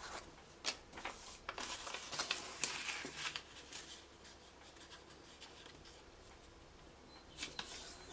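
Paper squares being handled and folded: crisp rustles and crinkles over the first few seconds, quieter for a while, then a few more near the end.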